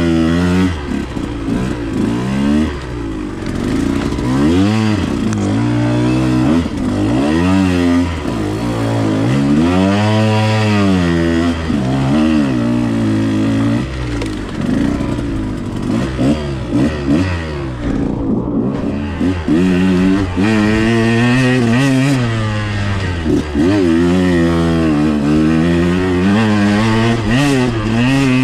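Dirt bike's single-cylinder two-stroke engine, a KTM 125XC, revving up and down again and again as the throttle is worked, its pitch climbing and dropping every second or two.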